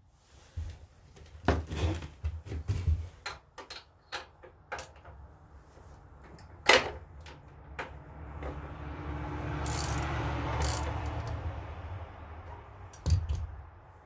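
Metal hand tools clinking and knocking, with a run of sharp clicks, a longer swelling noise in the middle and a final knock near the end.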